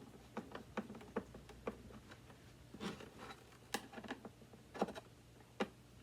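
Irregular light clicks and knocks of hard plastic vacuum-cleaner parts being handled, with a few sharper knocks about three, four and five seconds in.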